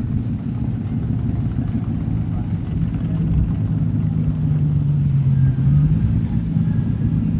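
A vehicle engine running with a steady low hum, its pitch dipping slightly and then rising again near the end.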